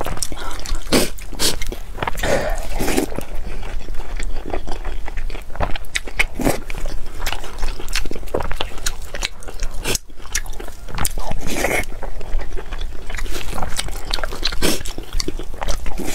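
Close-miked chewing and wet mouth sounds of a person eating braised pork belly and rice, with irregular sharp smacking clicks throughout.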